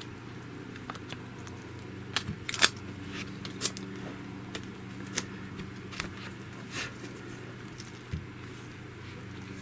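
Hands handling small items at a phone screen: irregular light clicks and taps, with a quick cluster about two seconds in and single taps after, over a steady low hum.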